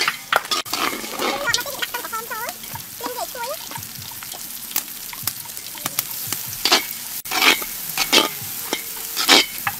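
Sliced shallots sizzling in hot oil in a large steel wok, stirred with a metal spatula that scrapes the pan in strokes, several louder scrapes in the second half.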